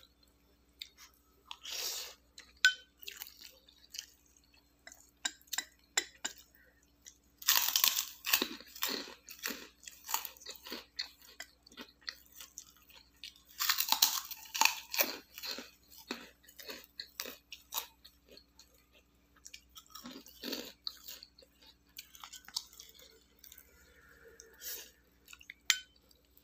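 A person chewing crunchy food close to the microphone, in several bursts of crisp crunching with small clicks between them.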